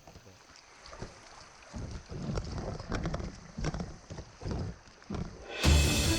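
Kayak running through shallow creek rapids: irregular knocks and splashes of paddle and water against the hull. Music with a beat starts near the end.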